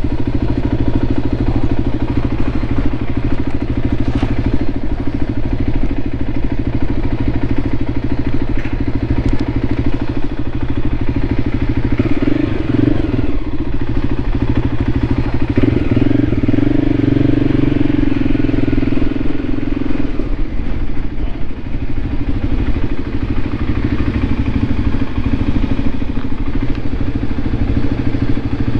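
Voge 300 Rally's single-cylinder engine running as the motorcycle is ridden, its note rising and strengthening for a stretch in the middle before settling back.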